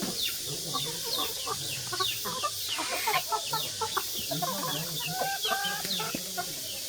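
A flock of chickens clucking and calling over one another, with many short high chirps scattered throughout.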